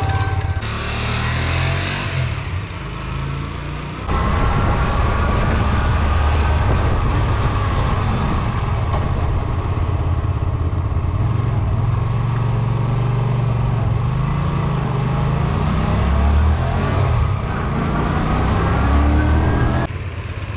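Hyosung GV Aquila 125's small air-cooled V-twin engine running as the bike is ridden, its pitch rising and falling with the throttle. It gets louder about four seconds in.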